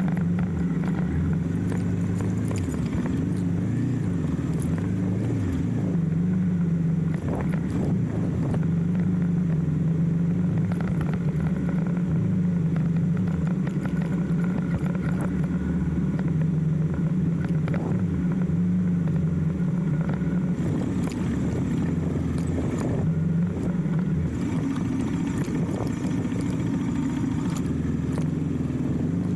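Motorcycle engine running steadily under way, its pitch shifting a little with the throttle, with occasional short knocks.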